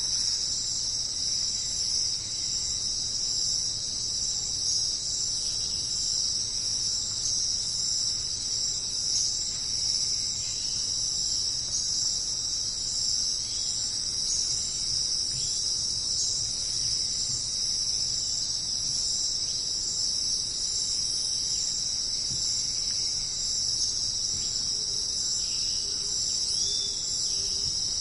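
A dense, steady chorus of jungle insects trilling high-pitched and continuously, with no thunder heard.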